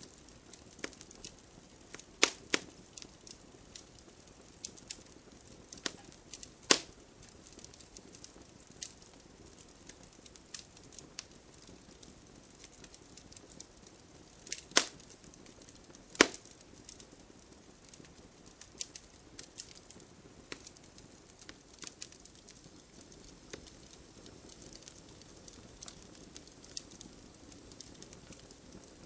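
Wood fire crackling in a fireplace: irregular small pops and snaps over a soft hiss, with a few louder sharp pops.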